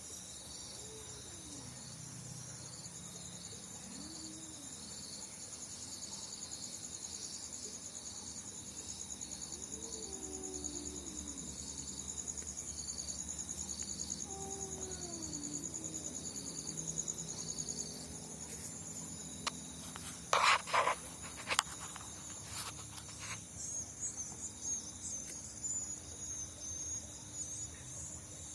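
Night insects such as crickets, a steady high-pitched trilling with a regular chirp about once a second. A few faint, low wavering calls rise and fall in the first half. About twenty seconds in comes a short burst of sharp knocks, the loudest sound.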